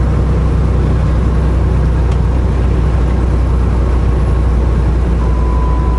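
Inside a semi truck's cab while driving: the diesel engine's steady low drone with road and tyre noise. A steady high tone comes in near the end.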